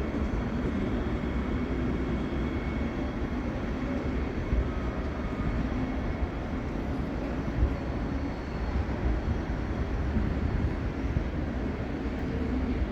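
Train running in along the station platform: a steady low rumble of wheels and running gear with faint whine, and a couple of short clacks.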